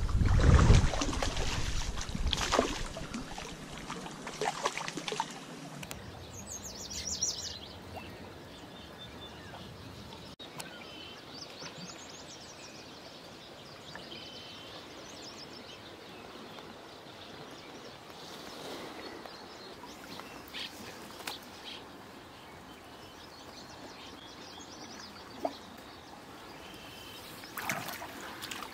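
Small birds chirping over a faint, steady outdoor background, with a few brief clicks and rustles. The first few seconds hold a louder low rumbling noise.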